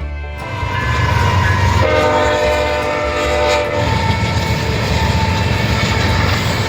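A train passing close by, its wheels and cars making a loud steady noise, with the horn sounding a held chord about two seconds in for roughly two seconds.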